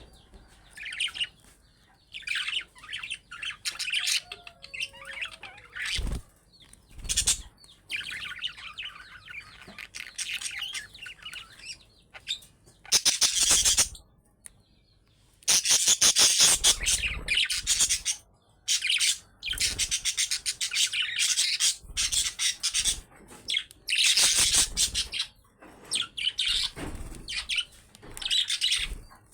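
Budgerigars chirping and chattering in bursts, the high warbling calls coming in loud clusters with short pauses between them.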